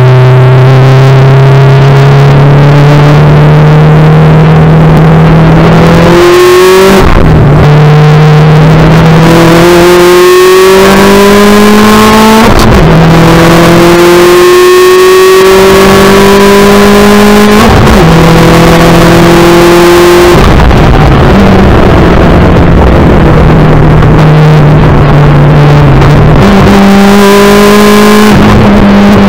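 Subaru WRX STI's turbocharged flat-four engine, heard loud from inside the cabin while driven hard on track. It pulls up through the revs and drops in pitch at gear changes or braking several times.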